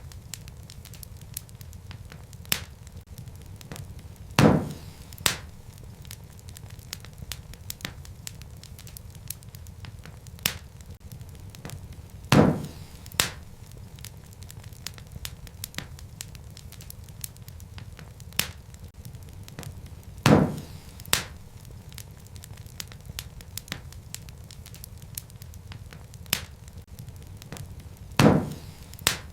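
Wood fire crackling: a steady low rumble with many small ticks, and a loud pop about every eight seconds, each followed by a smaller pop.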